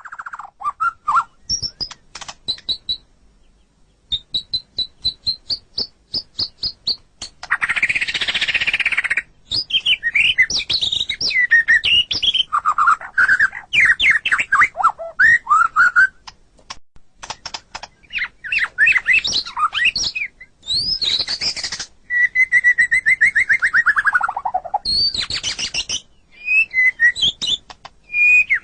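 White-rumped shama singing a long, varied song: clear whistled phrases, runs of quick repeated high notes, slurred rising and falling notes, and a few harsh rasping bursts, with short pauses between phrases. A long falling whistle comes about three-quarters of the way through.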